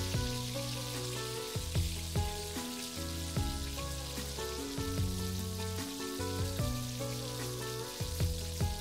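Background music with a melody and bass notes, over the steady sizzle of potato fries deep-frying in hot oil.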